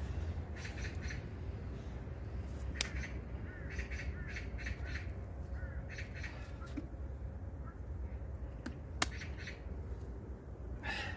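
Crows cawing several times, short harsh calls spread over the seconds, over a steady low background rumble, with one sharp click about nine seconds in.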